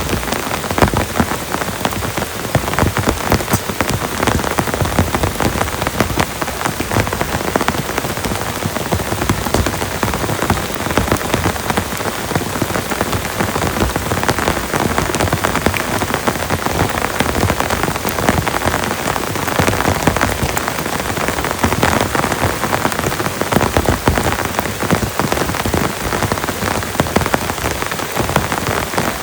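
Heavy rain falling steadily, a dense stream of separate drop hits close by with no let-up.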